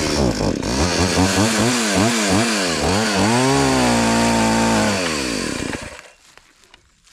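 Chainsaw running, its engine speed rising and falling several times, then holding high and steady. It winds down and stops about six seconds in.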